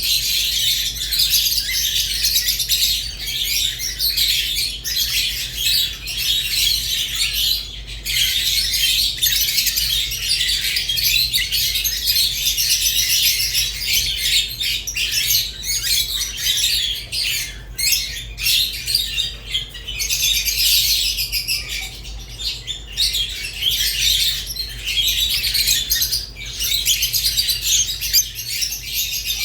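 Rosy-faced and Fischer's lovebirds chirping and chattering without let-up, a dense high-pitched twittering with a few brief pauses, over a steady low hum.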